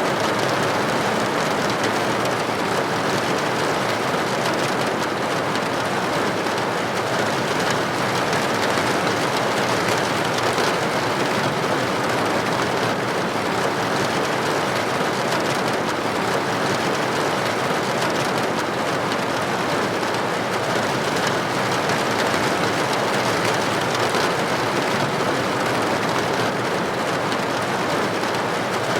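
Steady rain hitting a building window, an even unbroken hiss of droplets.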